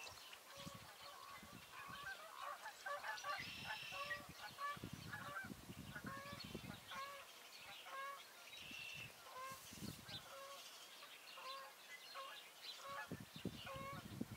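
A bird calling in a steady series of short, even-pitched notes, roughly two a second, with a few higher chirps from other birds.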